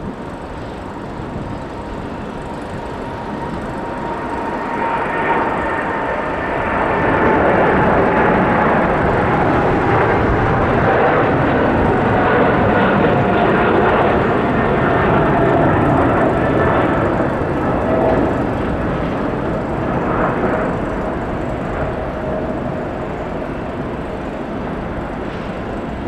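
Jet airliner engines passing by: a broad rush that swells over several seconds, holds, then slowly fades, with a whining engine tone that falls steadily in pitch as the aircraft goes past.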